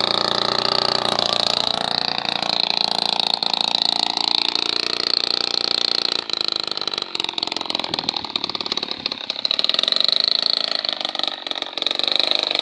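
Small brush-cutter engine powering a homemade fixed-wing aircraft, running continuously at speed, its pitch wavering up and down a few times.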